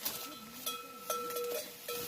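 Repeated metallic clinks, four or so in two seconds, each followed by a steady ringing tone like a small bell.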